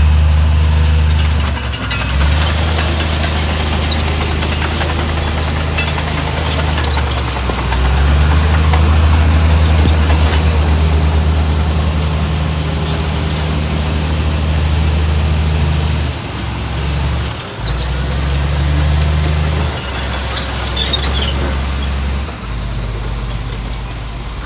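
Heavy diesel engine of earthmoving machinery running hard, its pitch and load shifting every few seconds, with scattered metallic clinks and squeaks over it, most of them about 21 seconds in.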